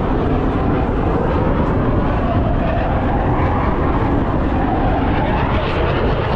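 Jet aircraft flying at an airshow, a loud steady rushing rumble with a faint slow drift in pitch.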